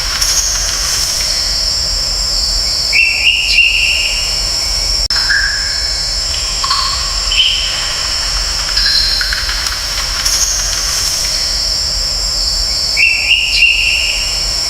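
Steady high-pitched insect drone, with short bird calls recurring over it several times.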